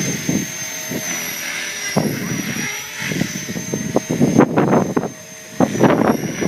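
Blade 450 3D electric RC helicopter in flight, its motor and rotor head giving a steady high whine that wavers slightly in pitch. Gusts of wind buffet the microphone throughout, heaviest about four to six seconds in.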